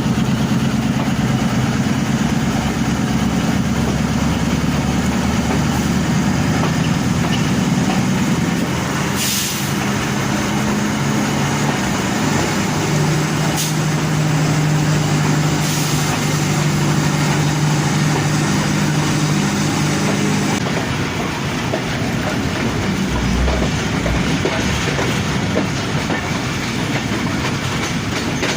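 A train at a station, its locomotive's diesel engine running with a steady low drone under a constant hiss of heavy rain. There are a few brief sharp sounds partway through. The engine drone drops away about 20 seconds in, leaving the rolling noise of the train.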